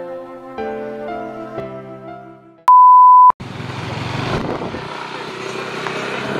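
Gentle piano music fading out, then a single loud, steady electronic beep of about half a second that cuts off sharply, a censor-style bleep tone. Street noise with traffic follows straight after.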